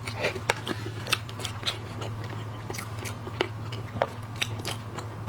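Close-up eating of shellfish: shells being bitten and cracked, and the meat chewed. It comes as irregular sharp clicks and crunches a few times a second.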